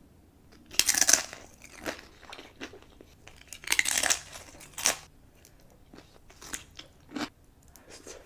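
Close-miked eating: two loud crunchy bites, about a second in and near the middle, with smaller wet clicks and chewing sounds between.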